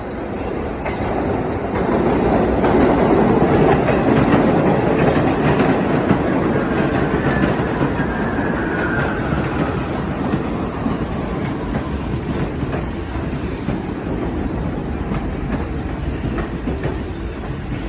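New York City subway train running through the station, its wheels clacking over the rails. It grows louder over the first few seconds and then eases off, with a faint falling wheel squeal partway through.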